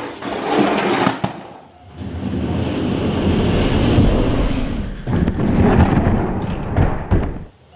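Die-cast toy monster trucks rolling and clattering down a plastic race track, with sharp clicks. About two seconds in this gives way to a deeper, steady rumble.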